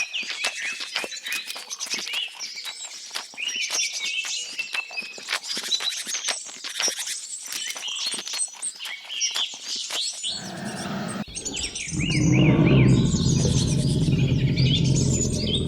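Many birds chirping and singing in quick, overlapping calls, mixed with sharp clicks. About ten seconds in, the sound changes abruptly: a loud low sound takes over, with rapid repeated bird calls still above it.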